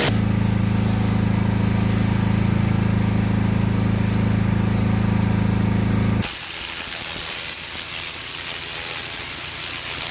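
Pressure washer running: a steady low engine hum under the hiss of water spray. About six seconds in it cuts abruptly to a brighter, louder hiss of spray alone.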